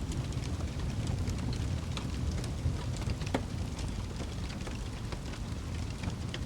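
Wood fire burning in a fireplace: a steady low rumble of flames with scattered sharp crackles and pops, a few of them louder, including one about three and a half seconds in.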